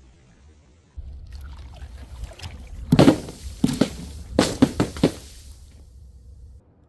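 A run of sharp crashing impacts from objects dropped onto a hard surface, about seven in two seconds, each ringing briefly, over a low rumble that starts about a second in and stops near the end.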